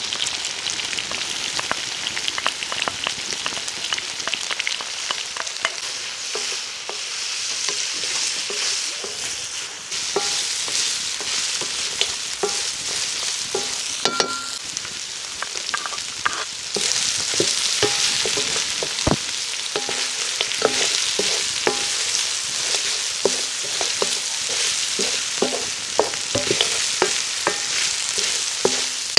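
Food sizzling as it fries in a pot over a wood fire, with a spoon stirring and scraping and knocking against the pot.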